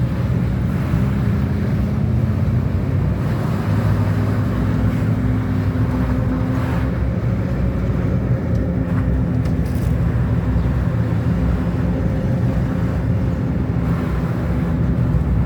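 Car engine and road noise heard from inside the cabin while driving at a steady speed.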